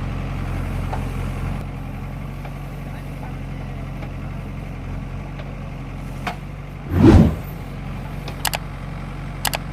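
A diesel engine on the earthmoving machines runs steadily at low revs. About seven seconds in comes one loud, short, noisy burst, the loudest sound here, and a few sharp knocks follow near the end.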